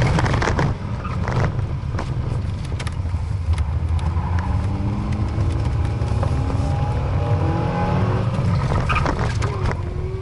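Small hatchback's engine pulled hard during a cone-course run, heard from inside the cabin: a steady low drone with short rising pulls in revs, and scattered knocks and rattles. Just after the run the driver says the clutch is slipping out completely.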